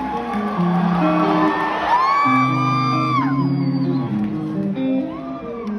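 Live rock band playing a stepping guitar and bass line, with crowd whoops rising over it, the loudest about two seconds in.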